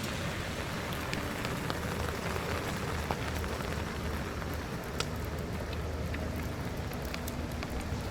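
Steady rain falling, with many small drops pattering on nearby surfaces and a low steady rumble underneath.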